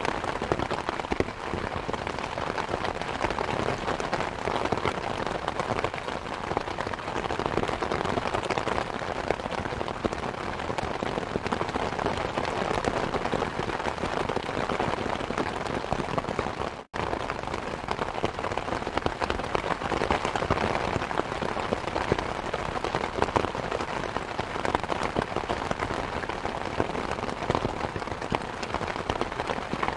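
Steady rain falling on surfaces, mixed with the crackle and small pops of a wood fire in a fireplace. The sound cuts out completely for an instant about halfway through.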